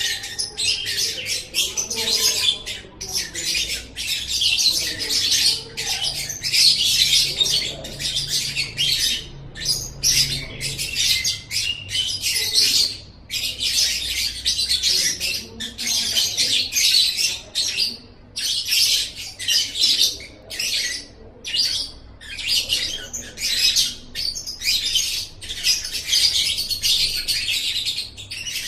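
Lovebird chattering: a rapid, almost unbroken stream of shrill chirps and squeaks, with short breaks every second or two.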